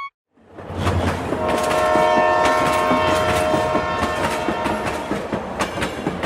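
Train running with a rattling clatter of wheels on rails, its horn sounding one steady multi-note chord from about a second in until about halfway through.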